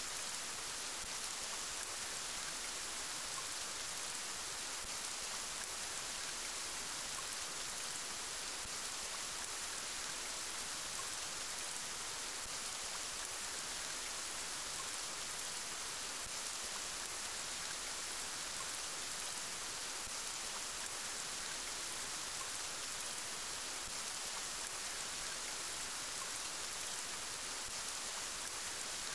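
Steady rain falling: an even, unbroken hiss of many drops hitting surfaces.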